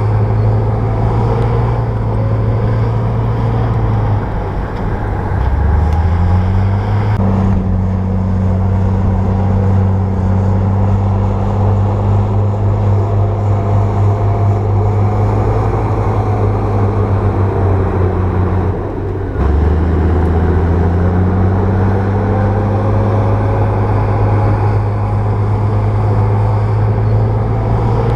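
Komatsu bulldozer's diesel engine running steadily. Twice the engine note drops, then climbs back up as it revs again.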